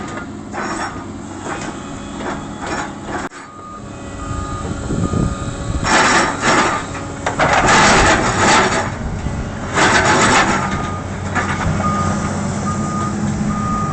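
A heavy vehicle's reversing alarm beeping at an even pace over a running engine. The beeping breaks off about three seconds in and returns later. Several loud bursts of noise come between about six and eleven seconds in.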